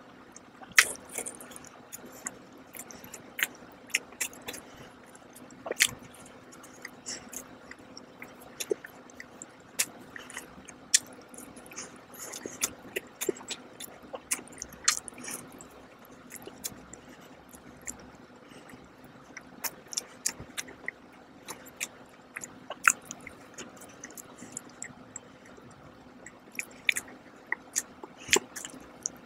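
Close-miked chewing and wet mouth sounds of a person eating a glazed donut, with frequent irregular sharp smacks and clicks over a faint steady hum.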